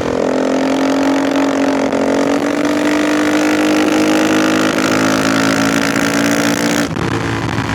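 KTM 450 EXC's single-cylinder four-stroke engine running under way: the revs jump up at the start, then climb slowly and steadily in one gear. About seven seconds in the sound breaks briefly and the revs drop, as at a gear change.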